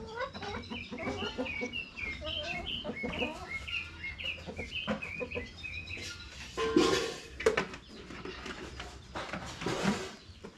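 Chickens clucking and peeping in quick short calls, with two louder, harsher sounds about seven and ten seconds in.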